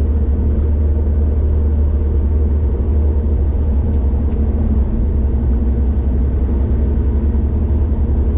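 Car driving at speed on a highway: a steady low rumble of engine and road noise.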